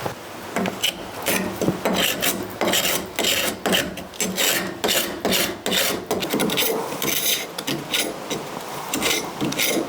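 A hand paint scraper dragged over a wooden boat's hull in repeated short strokes, about two or three a second, rasping old antifoul and red lead paint off the mahogany planking.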